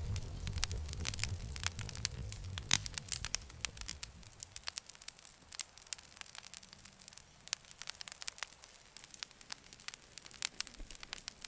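Campfire crackling: frequent sharp snaps and pops over a low rumble. The rumble drops away about four seconds in, leaving the crackles on their own.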